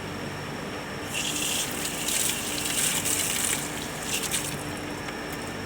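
A rushing hiss starts about a second in and lasts about three and a half seconds, over a faint steady hum.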